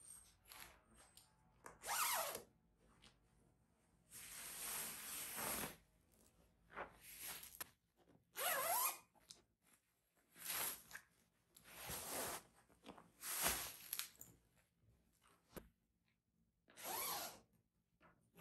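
Zipper on a fabric sofa cushion cover being pulled open in several short runs, one of them longer, with fabric rustling as the cover is worked off the cushion.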